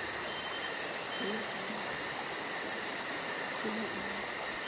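Night insects chirping: a high, even pulsing trill of about eight pulses a second over a steady hiss, with two faint steady higher tones underneath.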